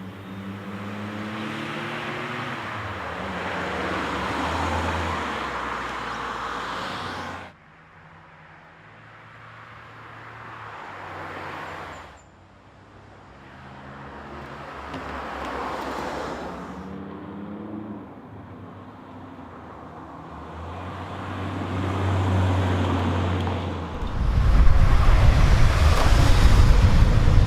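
BMW Z3 engine accelerating hard with its pitch climbing, then lifting off sharply several times for corners and gear changes. In the last few seconds it gives way to a loud, dense low rumble with rushing wind noise.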